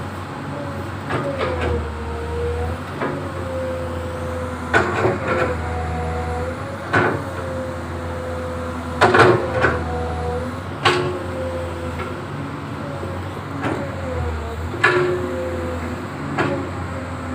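Excavator's engine and hydraulics running steadily, its pitch dipping briefly now and then, with sharp metal clanks every second or few.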